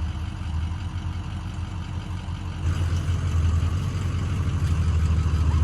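A motor vehicle's engine running with a steady low rumble, growing louder about two and a half seconds in.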